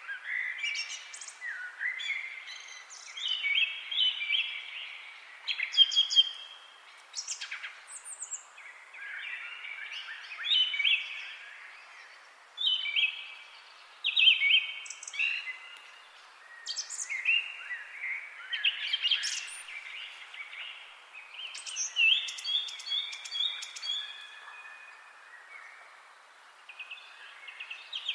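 Several songbirds chirping and singing in short, overlapping phrases, one after another with few pauses, over a faint steady background hiss.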